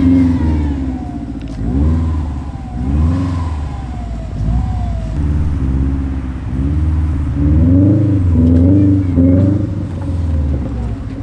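Rear-wheel-drive Subaru Legacy's boxer engine revving up and falling back in several surges while pulling out through deep snow on grip-poor R-compound tires.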